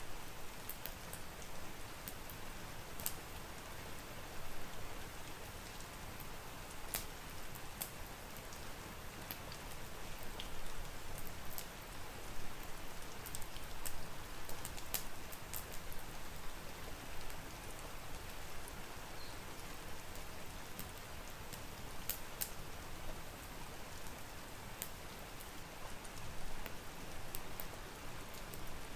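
Steady rain, an even hiss, with a wood fire crackling in scattered sharp pops throughout.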